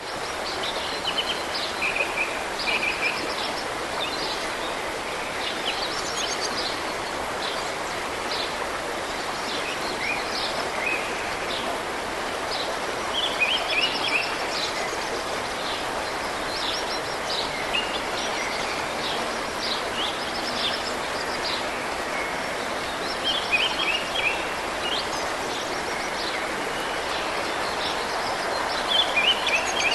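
Steady rushing of a mountain river, with small birds singing short, high phrases over it every few seconds.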